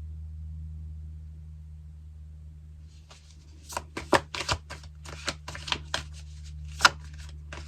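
Tarot cards being shuffled by hand: a quick run of crisp card slaps and rustles that starts about three seconds in, over a steady low electrical hum.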